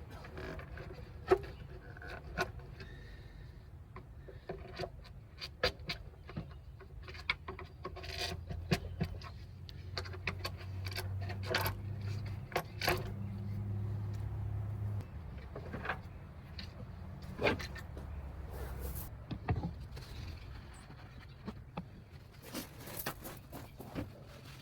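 Scattered sharp clicks and knocks, irregular and a few each second, over a low steady hum that swells for a few seconds about halfway through.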